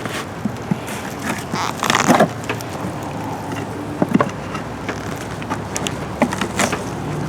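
Wooden beehive being cracked open and handled: scattered knocks, clicks and a short scrape as the lid and parts are pried and moved. A steady low rumble of wind runs underneath.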